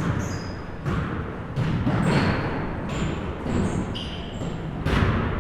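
Basketball gym sounds: basketballs bouncing on a court, several separate thuds, with short high squeaks in between, typical of sneakers on a hardwood floor.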